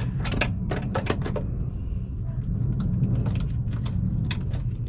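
Irregular clicks and light metallic knocks from handling metal body parts and tools while a panel is taken off a car body, over a steady low hum.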